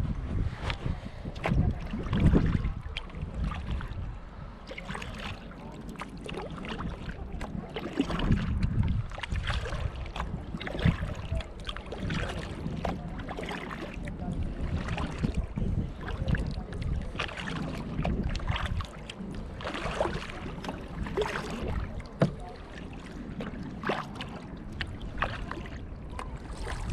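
Kayak paddle strokes dipping and splashing in the water, a run of repeated splashes, over a low rumble of wind on the microphone.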